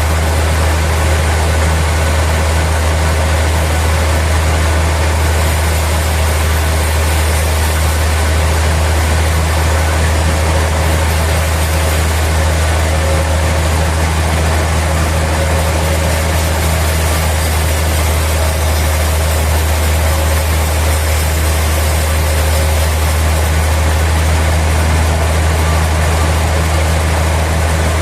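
Sawmill machinery running steadily, a deep engine hum with an even rush of noise over it that holds unchanged throughout.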